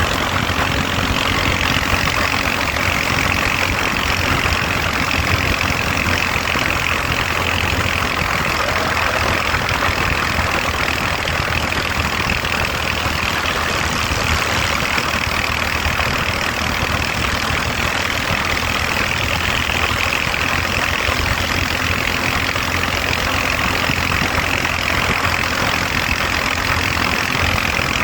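Motorcycle engine running steadily, with no change in pitch or loudness.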